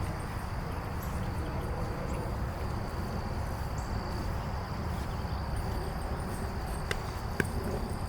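Insects outdoors buzzing in one steady high note over a low steady rumble, with two sharp knocks close together near the end.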